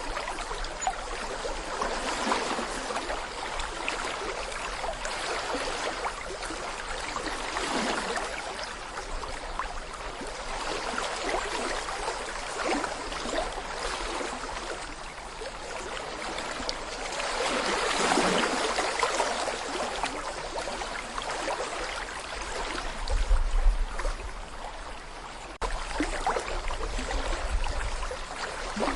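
Small brook babbling and gurgling as water runs over stones, a steady rush that swells and eases. Bursts of low rumble come about two-thirds of the way in and again near the end.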